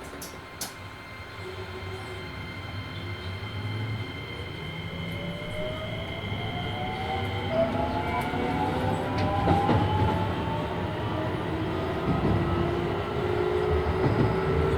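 Keisei 3000 series electric train's Toyo IGBT-VVVF inverter and traction motors, heard from inside the car as the train accelerates: several whining tones climb steadily in pitch over a growing rumble of the wheels on the rails. Two sharp clicks come right at the start.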